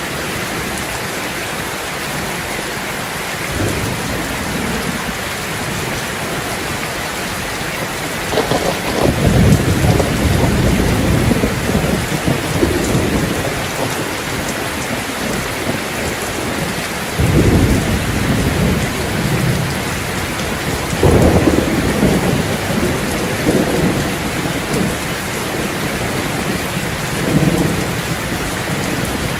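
Steady heavy rain on surfaces with rolling thunder: a long rumble about eight seconds in and shorter rumbles at about seventeen, twenty-one and twenty-seven seconds.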